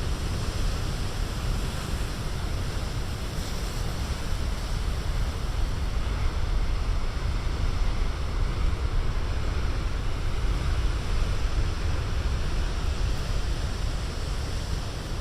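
Big ocean waves breaking against the shore in a continuous rush of surf, with wind rumbling on the microphone.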